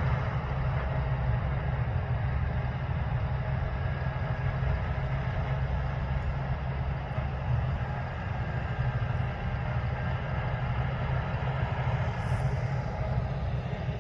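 Large diesel harvest machinery, combine harvesters and tractors, running steadily under load: a deep, even engine drone that holds without change.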